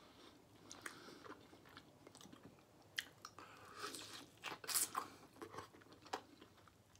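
A person biting and chewing smoked turkey leg meat off the bone, close to the microphone: irregular wet smacking and lip noises with scattered sharp clicks, the loudest a little before five seconds in.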